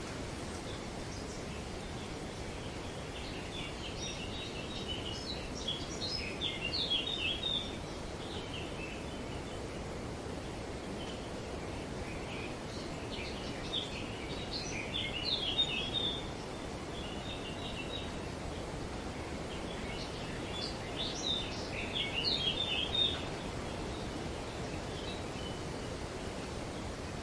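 Birds calling in three short bouts of quick, chattering chirps over a steady outdoor background rush.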